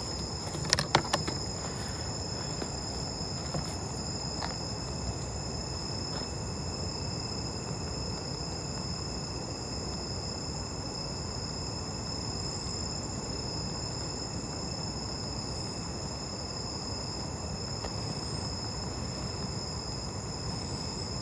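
Crickets chirring continuously at a high pitch over a low background hiss, with a few sharp clicks about a second in.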